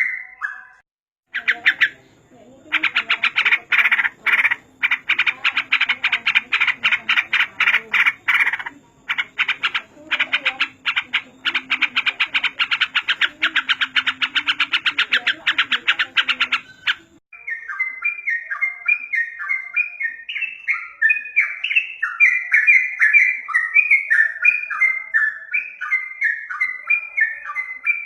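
Masteran recording of yellow-vented bulbul (trucukan) song. A long run of rapid, dense chattering with a low steady hum beneath it stops abruptly about 17 seconds in. It gives way to repeated short chirping phrases that fall in pitch.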